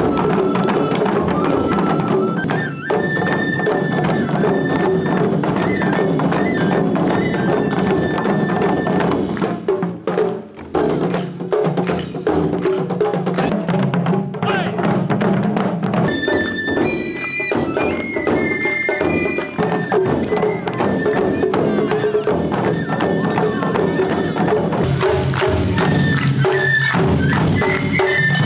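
Japanese taiko drum ensemble playing live: dense, rapid drum strikes with a high held melody line over them, briefly thinning out about ten seconds in.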